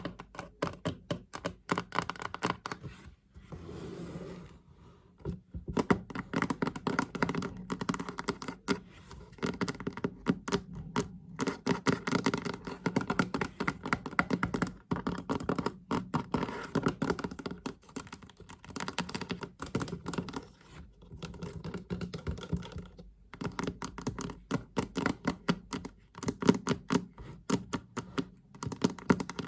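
Fast tapping on a chest: a dense run of quick taps, with a short softer break about four seconds in.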